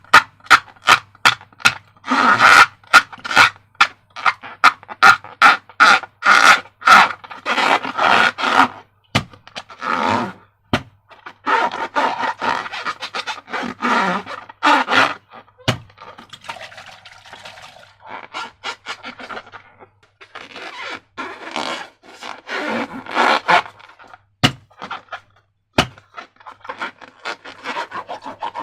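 Slime being squeezed and worked by hand, with rapid sticky clicks and squelches that come thick and fast for the first several seconds, then in looser bursts with short pauses.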